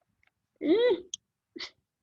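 A woman's short wordless vocal sound, rising and then falling in pitch, about half a second in. It is followed by a brief faint tick and a second short vocal sound near the end.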